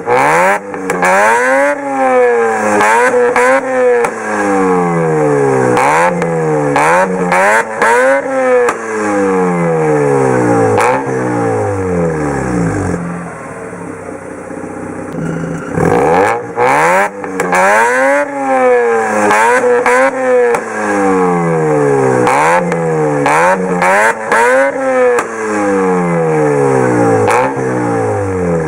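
Mazda RX-8's naturally aspirated 13B two-rotor rotary engine through a straight-pipe exhaust, revved again and again toward the redline, its pitch shooting up and dropping back about once a second. About halfway through it settles to a steadier, quieter run for a few seconds before the quick revs start again.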